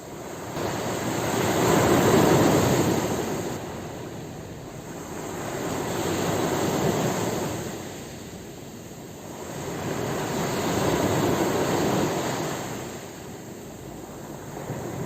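Ocean waves breaking and washing on a shore, in three slow swells about every four to five seconds, the first the loudest.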